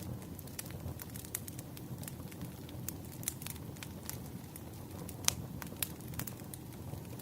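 Wood fire crackling: a steady low rush of burning with many irregular sharp pops and snaps, one louder pop about five seconds in.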